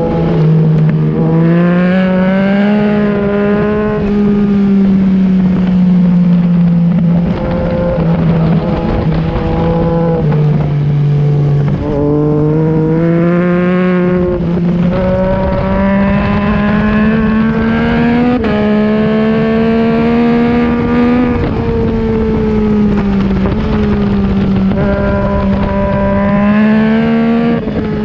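2021 Yamaha MT-09's inline three-cylinder engine with an Akrapovic exhaust, ridden hard on a race track. Its pitch climbs steadily under throttle and drops at each upshift or roll-off, several times over.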